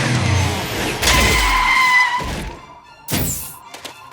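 Cartoon sound effects over music: a heavy thud about a second in, then a held high squeal like braking for about a second, and a short sharp burst about three seconds in.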